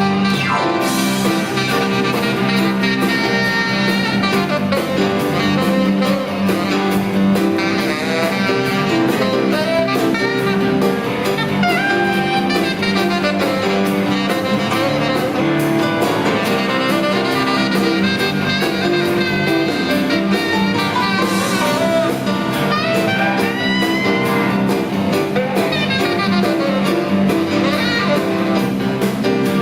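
Blues band playing live in an instrumental stretch: a melodic lead line over a steady drum beat and bass.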